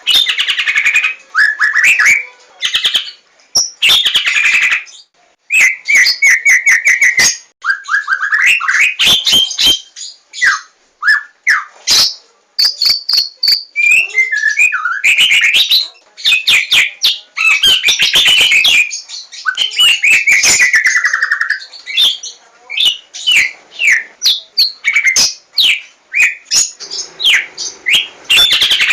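White-rumped shama (Javanese 'larwo' form) singing a loud, long, varied song of rapid trills, clicks and sweeping whistles, with hardly a pause.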